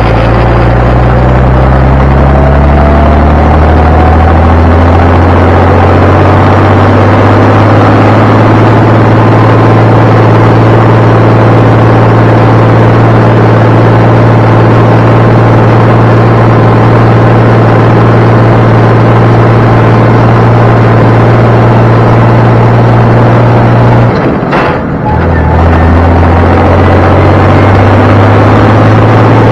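Diesel truck engine pulling a load of round hay bales, rising in pitch over the first few seconds, then running steadily. Near the end there is a brief break as it shifts gear, and then it pulls on.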